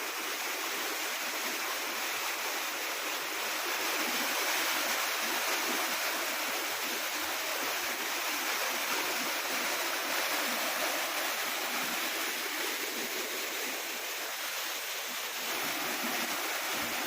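Waterfall and river water rushing as a steady roar of falling and flowing water.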